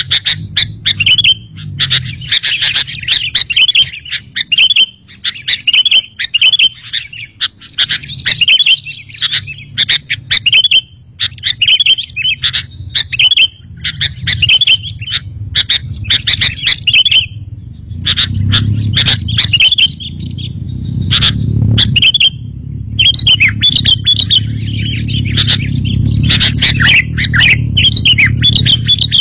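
Sooty-headed bulbul calling over and over in short, chirpy, bubbling phrases, with a low rumble underneath that gets stronger about two-thirds of the way through.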